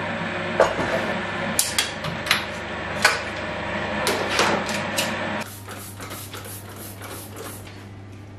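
Kitchen clatter: a string of sharp knocks and clinks from things being handled and set down, over a steady running hum that cuts off suddenly about five and a half seconds in.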